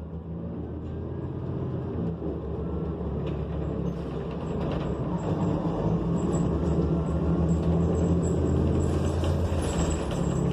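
A New Flyer XN40 transit bus's Cummins Westport ISL G natural-gas engine running as the bus drives, heard from inside the bus. It grows louder over the first several seconds and then holds steady.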